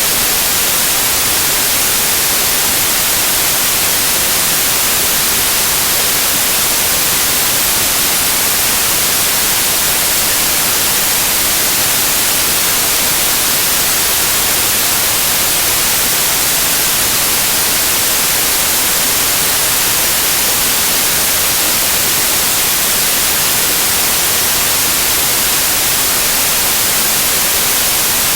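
Loud, steady white noise: an even hiss across the whole range, unchanging throughout.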